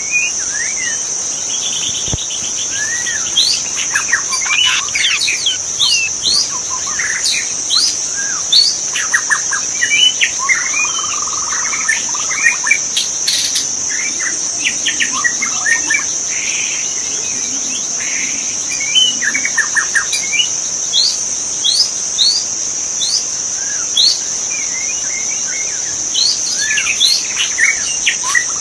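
Murai batu (white-rumped shama) singing a varied run of short whistles, rising and falling glides and chirps, over a steady high insect drone.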